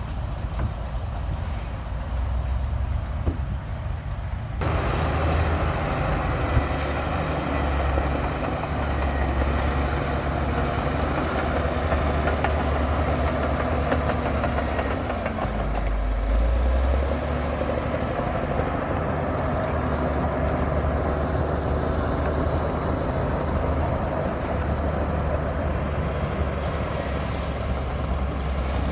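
Komatsu D60P crawler bulldozer's heavy diesel engine running steadily with a deep low rumble, turning abruptly louder and fuller about four and a half seconds in.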